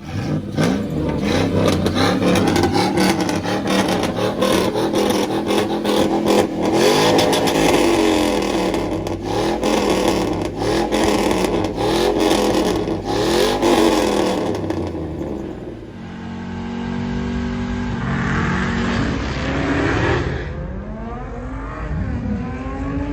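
Vehicle engine revving hard and accelerating, its pitch rising and falling again and again. It eases off about 16 seconds in and then revs up again near the end.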